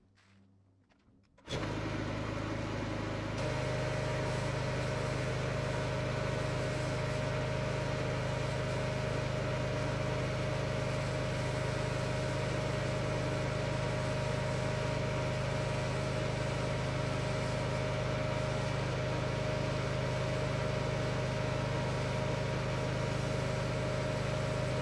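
Steady mechanical hum with a low drone and a higher steady tone, cutting in suddenly about a second and a half in after near silence.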